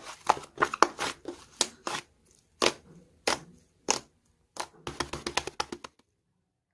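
A series of sharp, irregular taps or clicks, a few a second, then a quick run of them just before they stop suddenly near the end.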